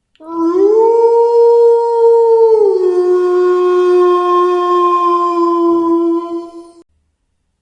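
A wolf gives one long howl. It rises in pitch at the start and holds, drops to a lower steady note partway through, then stops.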